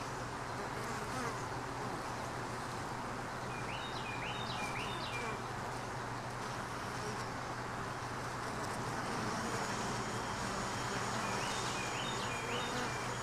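Honey bees buzzing steadily around an open hive, with a few faint short chirps about four seconds in and again near the end.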